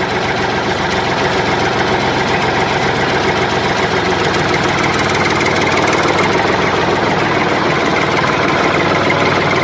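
Engine idling steadily, with a fast, even knock.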